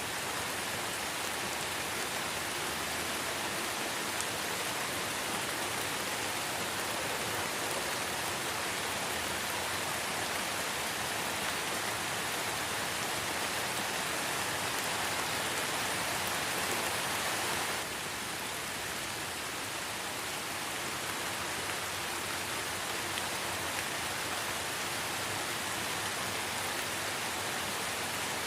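Light rain falling in a forest: a steady, even hiss of drops on leaves and ground. The level drops slightly and abruptly about two-thirds of the way through.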